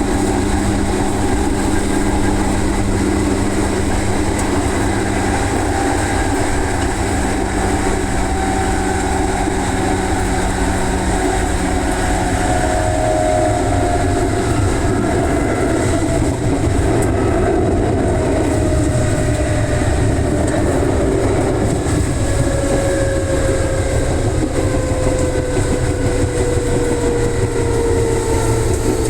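Electric commuter train running, heard from inside the carriage: a steady rumble of wheels on the rails with the traction motors' whine slowly falling in pitch.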